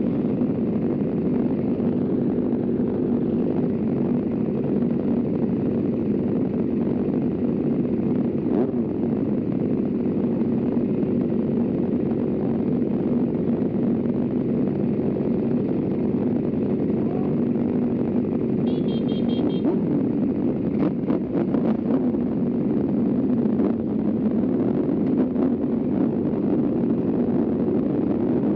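Kawasaki ZX-4RR's inline-four engine running at a steady engine speed while riding, an even unbroken note.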